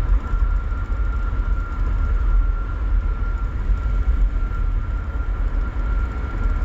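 Steady low rumble of road and engine noise inside a moving vehicle, with a constant high-pitched whine.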